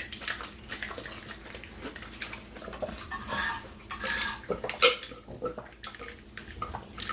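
Close-miked eating: wet chewing and mouth noises with scattered clinks of cutlery against a plate or food container, and one sharper clink about five seconds in.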